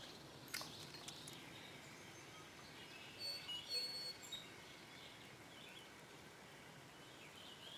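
Faint songbird chirps, a few short high notes clustered around the middle, over a low steady outdoor background, with a couple of soft clicks near the start.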